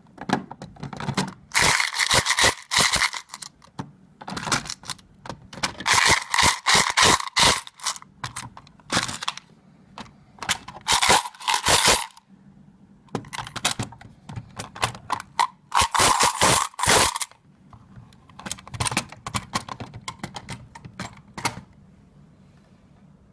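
Metal coins clinking and rattling in repeated bursts of one to two seconds as they pass through a table-top coin counting and sorting machine. A low hum sits under the later bursts.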